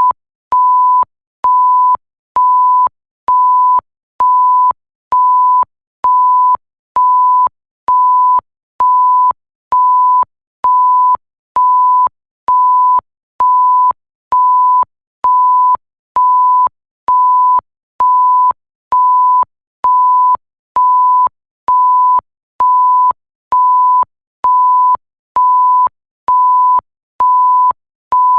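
Censor bleep sound effect: a single pure tone repeated in even beeps, each about half a second long, a little more than one a second, with a faint click as each beep starts and stops.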